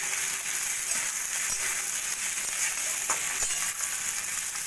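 Vegetables sizzling steadily in hot oil in a metal wok while a metal spatula stirs them, with a few light scrapes and taps of the spatula against the pan.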